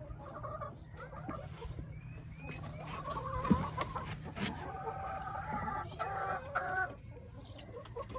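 Several hens clucking, with a longer drawn-out call from about five to seven seconds in. A couple of sharp knocks sound around the middle.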